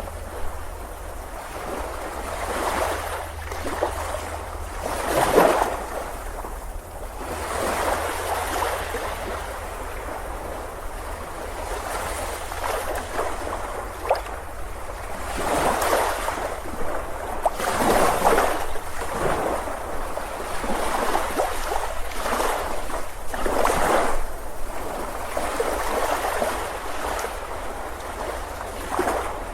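Sea waves breaking and washing up a beach, a steady rush of surf that swells in irregular surges every few seconds.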